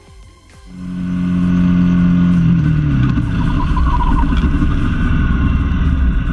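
Vehicle engine coming in loud about a second in, holding a steady pitch, then dropping in pitch a couple of seconds later and carrying on as a rough low rumble.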